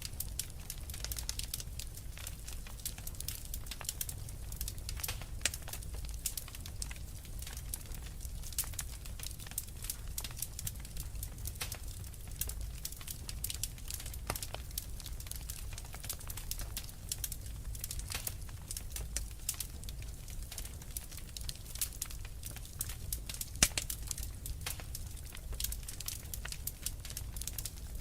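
Wood fire crackling: a steady stream of small irregular pops and snaps over a low rumble of flames, with one sharper pop near the end.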